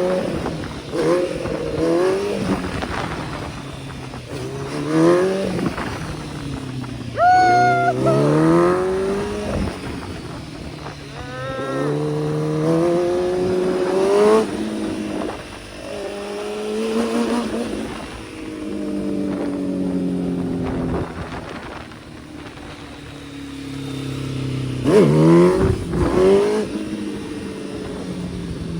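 Kawasaki ZX-10R sport bike's inline-four engine revving up and dropping back again and again as it accelerates and shifts. There are several sharp climbs in pitch, the steepest about seven seconds in and again near the end, with steady rushing noise underneath.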